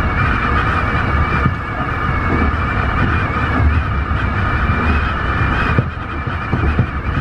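Tobu 50090-series electric train running, heard from inside the train: a steady low rumble with a high, slightly wavering whine above it.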